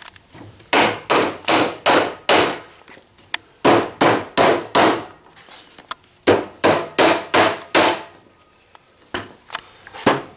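Hammer driving nails back into the spindles of an old wooden ladder: three runs of four or five sharp blows, about two to three a second, then a few lighter taps near the end.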